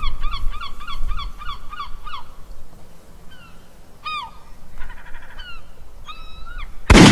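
Honking bird calls: a quick run of repeated calls, about five a second, for the first two seconds, then a few scattered single calls. A loud sudden burst of noise comes near the end.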